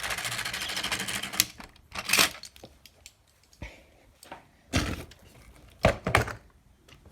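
A small motor running with a rapid, even clatter that stops about a second and a half in, followed by several separate knocks and clacks of plastic toy pieces being handled.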